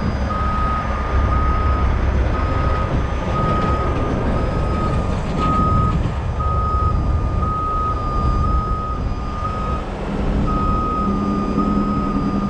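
A reversing alarm beeps steadily at one pitch, about once a second, with a brief pause near the end, over the low running of a diesel truck engine.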